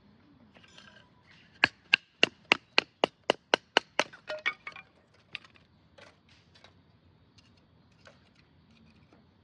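A quick, even run of about ten sharp clicks, about four a second, followed by a brief cluster of lighter clinks and a few scattered faint ticks.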